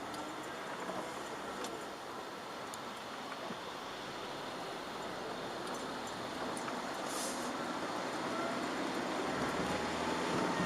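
Chevrolet Aveo 1.4 petrol car driving on wet roads, heard from inside the cabin: tyre and road hiss with the engine note gliding up and down, growing slowly louder toward the end. A few light ticks are heard too.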